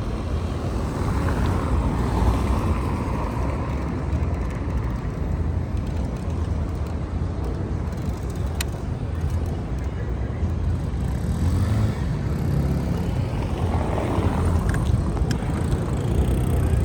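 Wind rushing over the microphone with city traffic noise around it, recorded from a moving bicycle. A single sharp click about halfway through.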